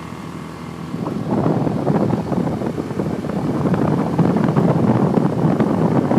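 Motorbike running while riding, with wind rushing over the microphone; it gets louder and rougher about a second in.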